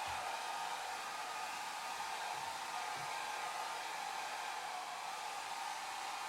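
Hair dryer running steadily: an even, unbroken rushing hiss of blown air, strongest in the middle range.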